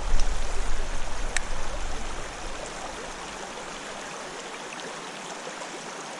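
Small creek's water flowing steadily. A low rumble on the microphone fades out after the first two seconds or so, and there is one faint click about a second and a half in.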